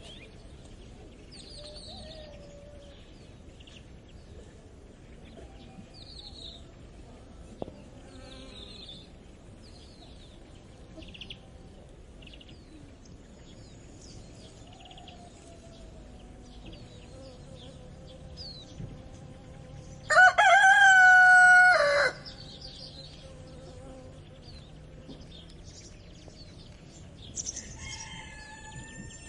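A rooster crows once, loud and held for about two seconds, about two-thirds of the way in. Small birds chirp faintly throughout.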